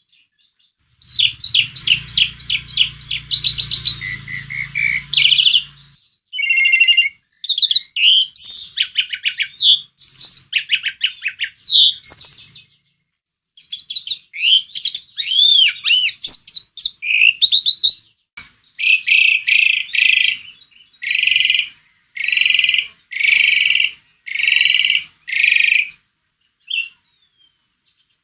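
Javan pied starling (jalak suren) singing a long, varied song in full voice: fast trills and chatter, rising and falling whistles, then near the end a run of harsh, rasping notes about one a second.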